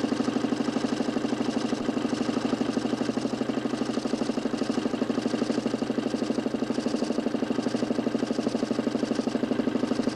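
DC motor spinning a homemade 40 cm plywood Nipkow disc in a mechanical television, running steadily at speed with a fast, even pulsing hum.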